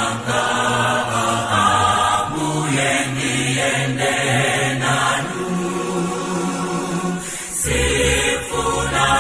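Background music of a choir singing held chords, with a deeper bass coming in near the end.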